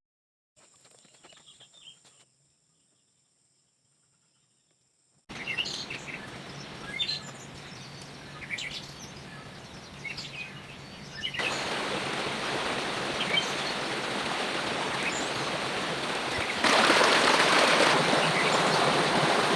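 Near silence at first. Then, about five seconds in, birds chirping over a steady rushing noise of the outdoors. The noise gets louder in two sudden steps.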